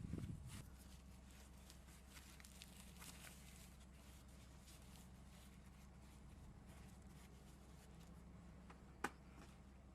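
Near silence: a steady low hum of room tone with faint scattered ticks and one sharp click near the end.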